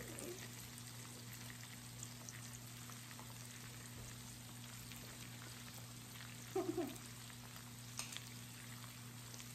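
Sliced pork and king oyster mushrooms sizzling on an electric raclette griddle plate: a quiet, steady frying crackle with scattered small pops over a faint electrical hum. A short murmur from a voice breaks in about two-thirds of the way through.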